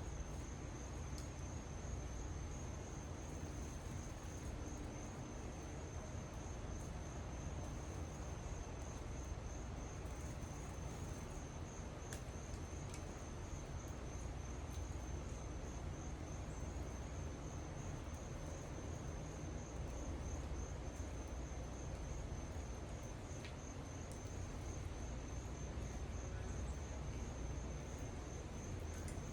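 Insects trilling steadily outdoors, a continuous high, finely pulsing buzz, over a low steady rumble of background noise.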